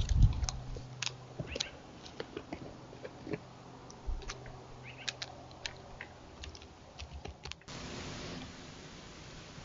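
Faint, scattered clicks and crunches of animals feeding on a deer carcass, over a low steady hum that cuts off near the end.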